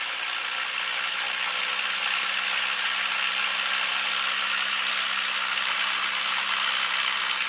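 Aircraft piston engine held at higher power for the run-up ignition check, a steady drone that grows a little louder over the first two seconds and then holds.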